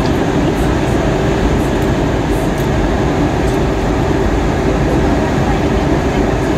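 Steady cabin noise inside an Airbus A320-232 airliner in flight: an even rush of airflow and engine drone, with a faint steady hum underneath.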